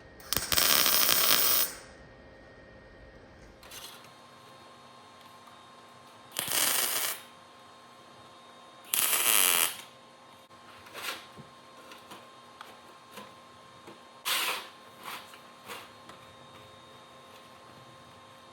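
Metal fabrication noise: three short, loud bursts of about a second each, with fainter clicks and taps between them.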